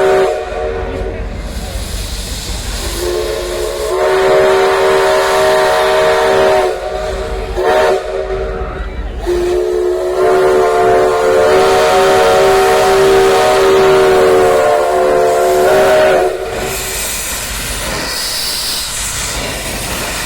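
Chime steam whistle of the 2-6-6-2 Mallet steam locomotive No. 204 blowing several times: a long blast about three seconds in, a short toot, then a long blast of about seven seconds. Some blasts start a little flat before settling on a steady chord. Steam hisses between and after the blasts.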